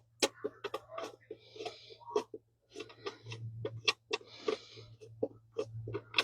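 Irregular clicks and knocks of tools and parts being handled during work on a truck engine, with two short hissing bursts, one about one and a half seconds in and one about four and a half seconds in, over a low steady hum.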